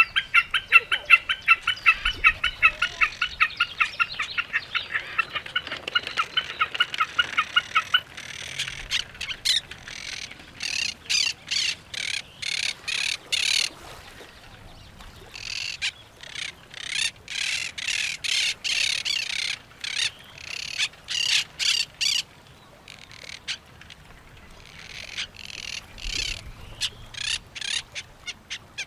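Birds calling: a fast, even chatter of about seven notes a second for the first eight seconds, then repeated bouts of harsh squawks, the calls of parrots.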